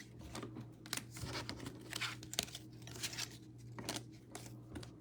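Trading cards and their plastic sleeves being handled and sorted, giving light irregular rustling and clicking.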